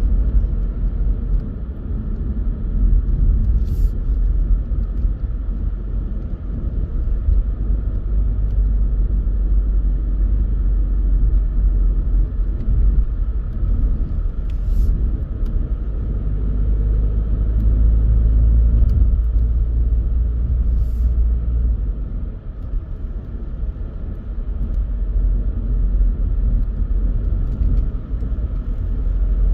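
A car driving along a road: steady low engine and tyre rumble. It eases briefly about two-thirds of the way through, and there are a few faint ticks.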